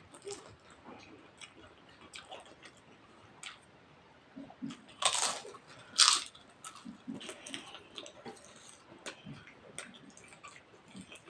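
Close-up mouth sounds of a person chewing and biting food, a run of small wet clicks and crackles, with two louder crunches about five and six seconds in.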